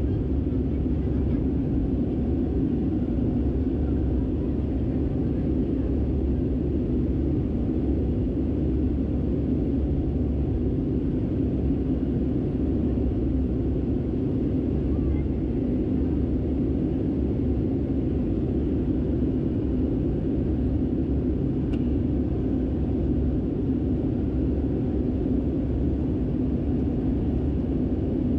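Steady cabin rumble inside an Airbus A319-112 with its CFM56 engines running, an even drone with no rise or fall in pitch.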